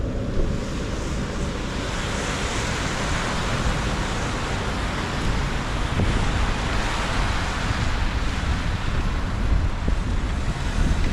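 Wind noise on a GoPro's microphone while riding a bike: a steady low rumble under an even hiss.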